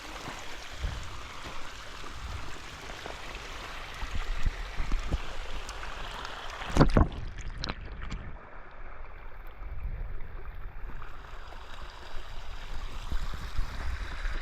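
Rain-swollen creek running and splashing over clay and stones. There is a steady rush of water with uneven low rumbling, and one sharp thump about seven seconds in.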